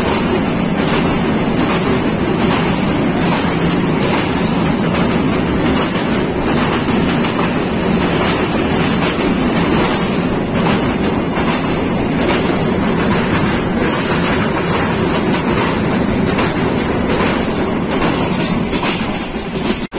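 Passenger train running steadily at speed, heard from on board: a continuous rumble of wheels on the rails with a clickety-clack of rail joints.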